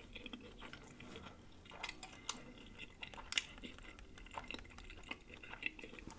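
Close-miked chewing and mouth smacking on a corned beef sandwich: soft, irregular wet clicks and crackles.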